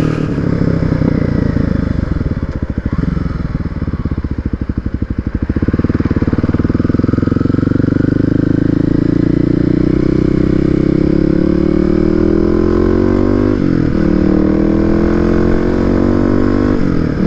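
Motorcycle engine running under way: it drops to low revs with a slow, even pulse, then picks up and climbs steadily in pitch. Near the end the pitch drops briefly twice, as at gear changes.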